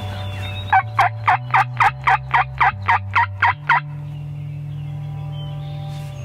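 A run of about a dozen turkey yelps, roughly four a second, each note dropping in pitch, lasting about three seconds. A low steady background tone continues underneath.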